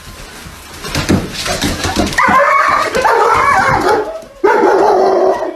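A dog vocalizing in two long, wavering whines or howls, after a few knocks.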